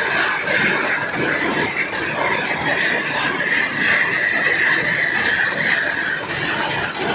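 Double-spindle rotary veneer peeling lathe running: a steady mechanical hiss and rumble with a strong high band that holds level, dipping slightly in pitch near the end.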